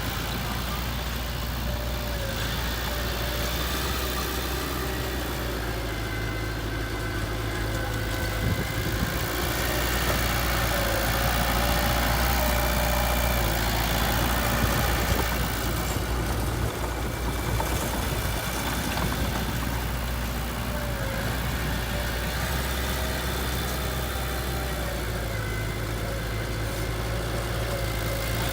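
Heavy construction machine's diesel engine running steadily at low revs, growing slightly louder partway through.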